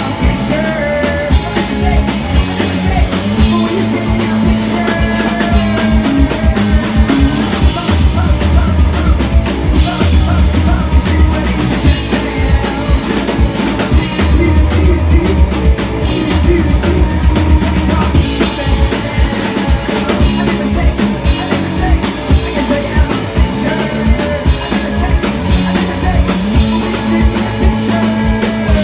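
Live rock band playing a song at full volume, driven by a drum kit with a steady bass-drum beat.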